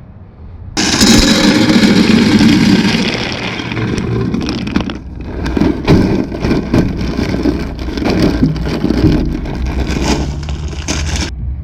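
Hardwood pellets poured into the hopper of a Traeger pellet grill: a loud, dense rattle of many small clicks. It starts suddenly about a second in and stops shortly before the end.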